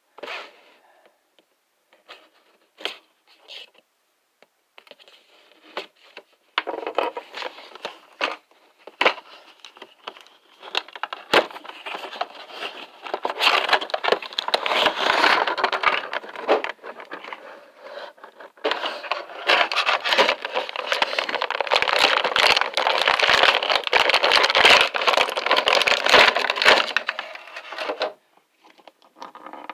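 Action-figure box being opened by hand: a few scattered clicks and taps, then about twenty seconds of continuous crinkling and rustling of plastic and cardboard packaging, which stops suddenly shortly before the end.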